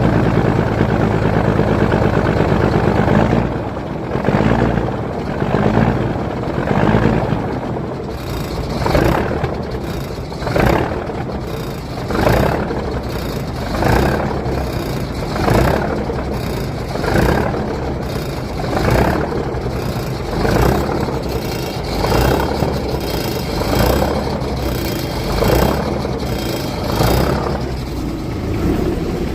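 Cummins 855 inline-six diesel truck engine running cold. It is steady at first, then from about three and a half seconds in it swells and falls in a regular beat roughly every one and a half to two seconds. The owner says it backfires a little when cold and suspects a loose injector.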